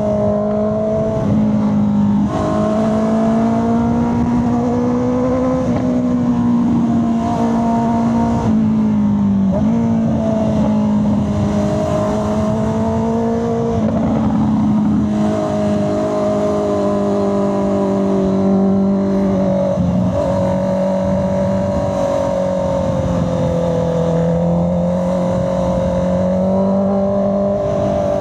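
Honda CB650R's inline-four engine running under way, its pitch rising and falling gently with the throttle, with several brief dips as the revs drop and pick up again. Low wind rush runs underneath.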